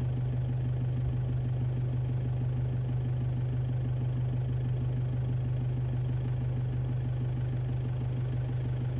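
Vehicle engine idling steadily: a low, even hum with a fine regular pulse.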